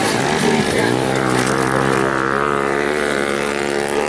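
Motocross dirt bike engine running at fairly steady revs. Its pitch dips just under a second in, then holds steady.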